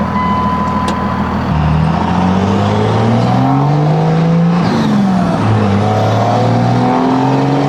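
24-valve Cummins diesel with a 5-inch turbo-back exhaust accelerating: the engine note climbs, drops back at a gear change about five seconds in, then climbs again.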